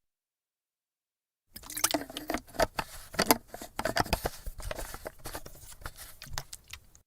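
Water sloshing inside a full plastic army canteen as it is shaken, with irregular knocks and clicks of the plastic. It starts about a second and a half in and stops just before the end.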